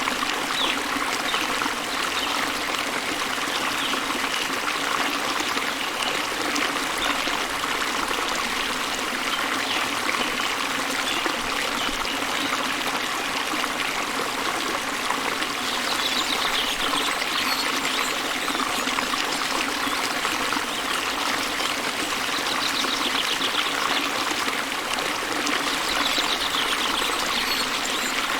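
Small waterfall and river running steadily, a continuous rushing and splashing of water. Faint bird trills come through a few times in the second half.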